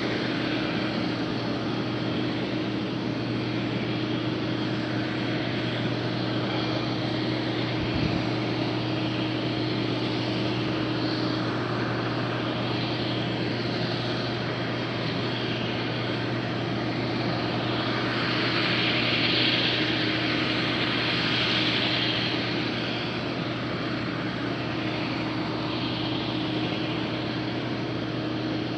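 IH 2577 combine running steadily in the field, a constant engine drone with a hiss over it that grows louder for a few seconds past the middle.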